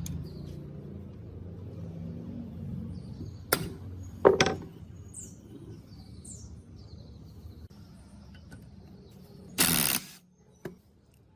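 A couple of sharp knocks, then a brief loud hiss near the end, over a low steady hum, with birds chirping faintly in the background.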